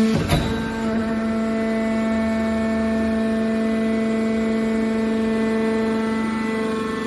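Industrial machine running with a steady pitched whine, with one sharp knock about a third of a second in.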